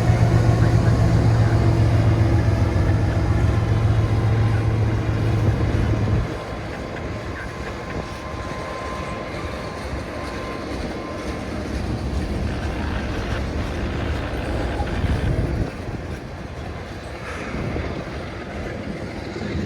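Freight train passing: a diesel locomotive's steady low engine drone for about the first six seconds, then it drops away, leaving the rolling rumble of freight cars on the rails.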